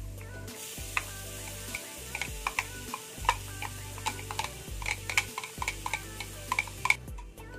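Chopped string beans dropping into hot oil in a frying pan and sizzling, starting about half a second in and dying away near the end, while a metal spoon clicks repeatedly against a glass bowl as it scrapes the beans out. Background music plays underneath.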